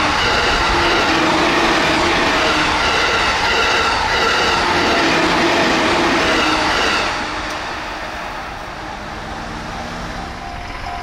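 An E231 series electric train running past at high speed, about 112 km/h: the loud roar of steel wheels on rail, with a few steady whining tones. The noise drops off about seven seconds in as the train clears, leaving a lower rail rumble.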